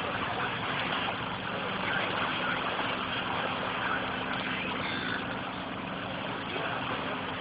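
Boat engine running steadily, a constant low hum under an even rushing noise.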